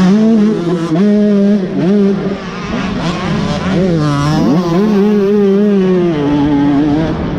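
Dirt bike engine revving up and down as it is ridden. The pitch climbs sharply several times and holds fairly steady between climbs.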